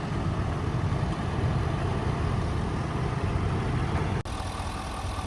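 Ford 6.7L high output Power Stroke V8 turbo diesel idling with a steady low rumble. The sound cuts out for an instant about four seconds in, then carries on with more hiss.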